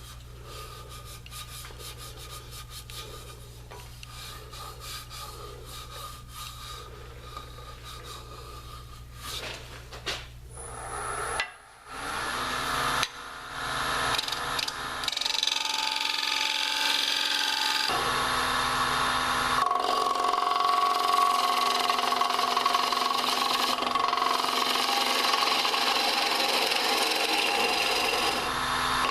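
Wood lathe turning a hard maple bowl: a turning tool cutting the spinning wood with a steady rough scraping, light for the first ten seconds or so, then much louder and continuous from about 13 seconds in.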